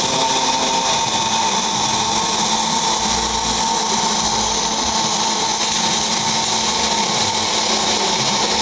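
Pulsed MIG/MAG welding arc from a Panasonic welding robot, running without a break: a steady hiss with a constant tone through it.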